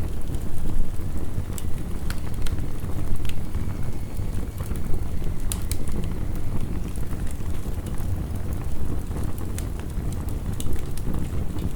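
Wood fire crackling with scattered sharp pops, over the steady low rush of heavy rain.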